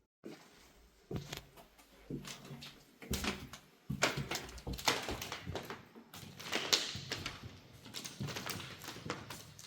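Irregular knocks, scrapes and rustling of someone moving about and handling things inside a room, starting about a second in.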